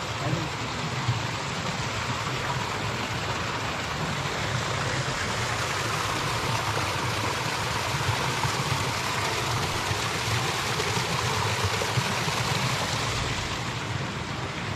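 Steady rush of running water, fresh spring water flowing through trout ponds.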